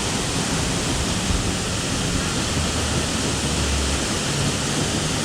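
The Ampola waterfall's steady rush of falling water, an even, unbroken noise.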